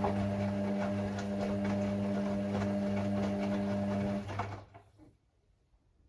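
Hoover AI130 washing machine running early in a Speed Wash cycle: a steady mechanical hum with a rattly, watery noise over it, which shuts off a little over four seconds in, leaving near silence broken by one short click near the end.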